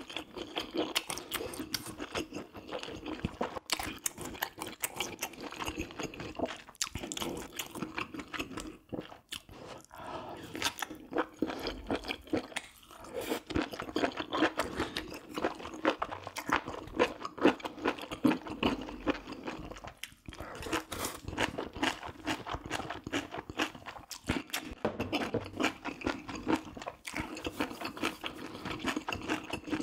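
Close-up eating sounds of a person chewing and biting into spicy braised pork ribs with rice cakes and mushrooms: a steady run of mouth clicks and crunches.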